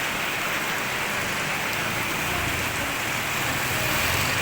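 Heavy thunderstorm rain falling in a steady hiss, with a low rumble under it in the second half.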